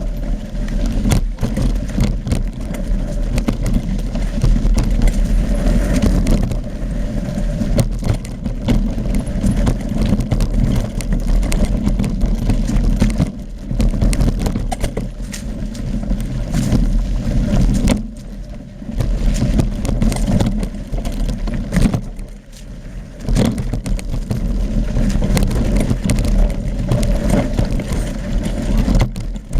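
Mountain bike being ridden over a rough trail: a steady low wind rumble with continual rattling and knocking from the bike, easing off briefly a few times.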